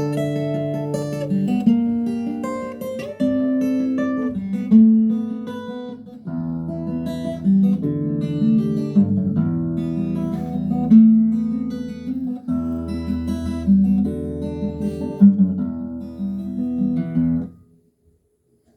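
Acoustic guitar playing a sequence of chords, stopping about a second before the end.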